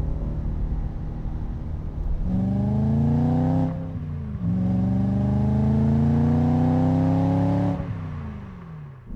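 BMW E9X M3's 4.0-litre V8 through a Borla cat-back exhaust, accelerating hard. It runs steadily at first, revs up from about two seconds in, drops in pitch at an upshift near four seconds, pulls up through the next gear, then falls away as the throttle is lifted near the end.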